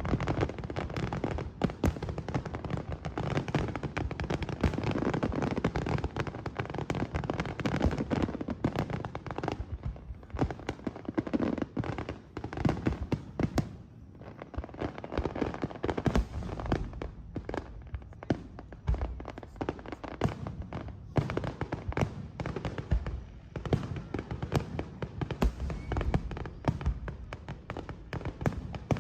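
Fireworks display: many shells bursting in quick succession, dense bangs and crackling over low booms, thinning for a few seconds around the middle before picking up again.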